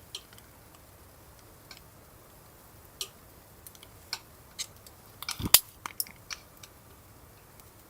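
A dozen or so light clicks and taps at irregular intervals, with a louder knock about five and a half seconds in.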